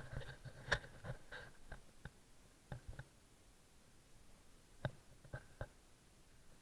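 Scattered light clicks and taps, several close together at first, then single ones a second or so apart, in a small echoing room.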